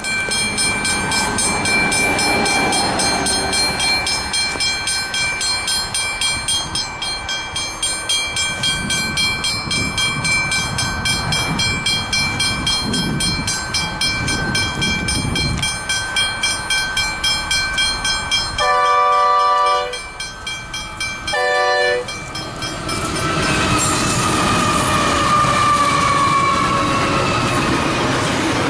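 Westinghouse Hybrid level crossing bell ringing fast and steady as a train approaches, with the train's rumble building under it. The train horn sounds two blasts about two-thirds of the way through, the second shorter. Then the train passes with loud wheel-on-rail noise and squealing wheels.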